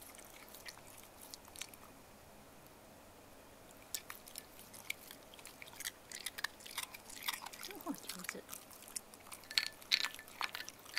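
Shiba Inu crunching ice cubes, irregular crisp cracks and chewing that pick up after a brief lull about four seconds in.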